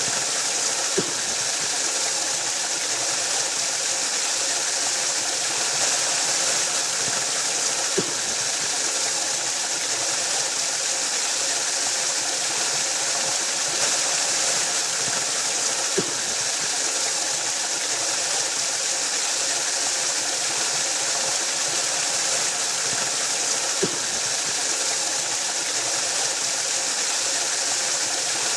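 Waterfall rushing in a steady, unbroken hiss that is strongest in the high range. A small soft knock comes about every eight seconds.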